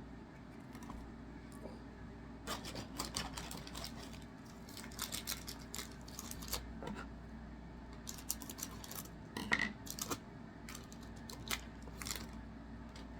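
Trading cards being handled: a scattered run of light clicks, snaps and rustles as cards are flicked through and set down, the sharpest snap about nine and a half seconds in.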